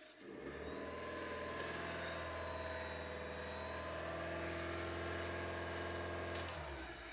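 Honda Civic Hybrid's 1.5-litre four-cylinder engine running at a steady idle. It stops abruptly about six and a half seconds in.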